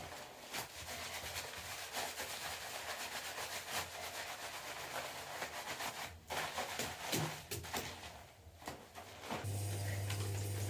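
Hands lathering shampoo through wet hair and scrubbing the scalp: a rubbing noise with many small crackles, pausing briefly twice. A steady low hum comes in near the end.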